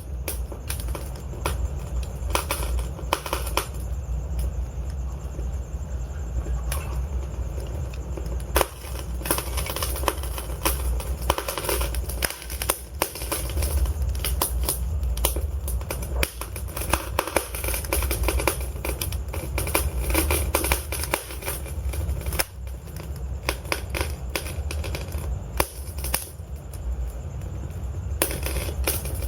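Wood fire burning in a fireplace: a steady low rumble of the flames with dense, irregular crackles and sharp pops from the logs.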